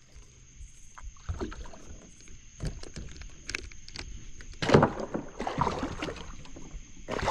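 A big blue catfish being hauled out of the water into a kayak: scattered knocks against the hull, then loud splashing and thrashing about two-thirds of the way in and again near the end.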